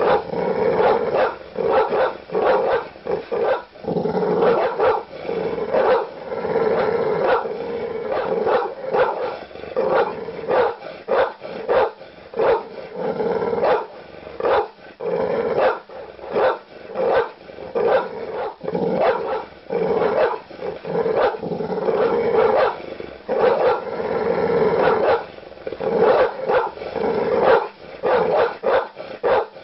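Large dog barking aggressively in fast, near-continuous runs of deep barks with only brief gaps.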